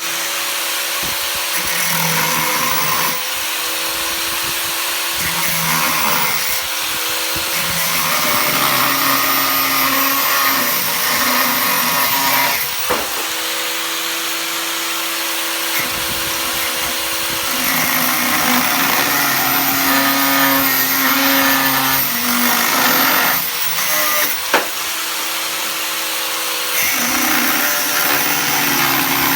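Power tools and machinery running steadily during air conditioner installation work, their pitch and mix changing every few seconds, with a couple of sharp clicks.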